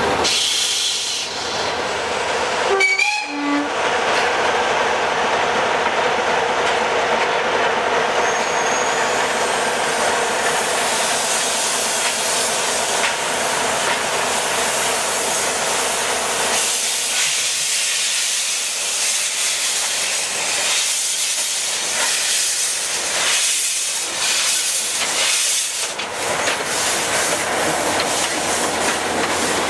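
A train of a small 0-4-0 saddle tank steam locomotive and a Class 45 diesel running, with steam hissing over a steady engine drone. From about halfway a regular beat sets in as the locomotive's wheels and rods turn.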